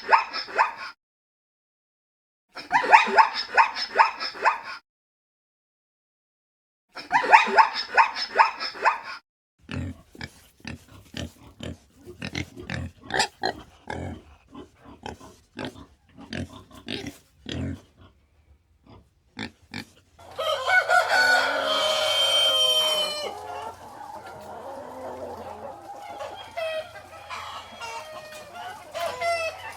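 A run of different animal calls cut one after another: three alike bursts of pitched calls with silences between them, then a string of short grunts, then a louder, longer call about two-thirds of the way through, and quieter calls after it.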